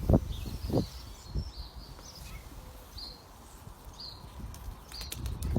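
Outdoor ambience: short bird chirps repeating about once a second over a low rumble, with a few dull thumps in the first second and a half.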